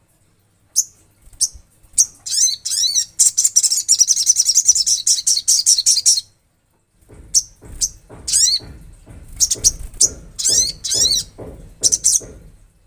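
Olive-backed sunbird singing: a few sharp high chips, then a fast, high buzzing trill lasting about four seconds, and after a short pause a series of separate high, quickly repeated notes.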